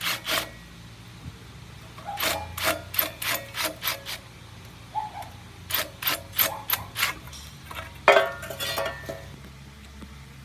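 A hand tool scraping in short back-and-forth strokes, in runs of about half a dozen strokes each, then a longer scrape near the end, over a steady low hum.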